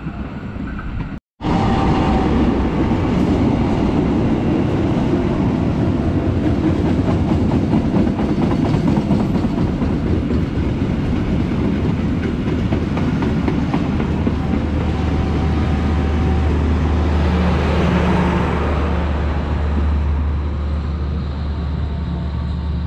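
A passenger train of coaches rolling past close by on the near track, its wheels running loudly on the rails. A low steady hum grows stronger in the second half as the train goes by.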